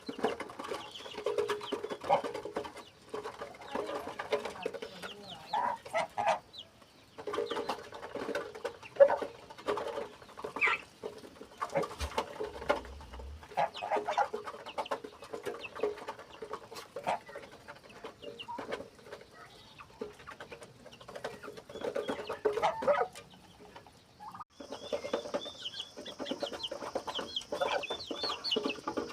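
A flock of chickens clucking, many short calls overlapping, with a couple of brief lulls. A steady high hiss joins near the end.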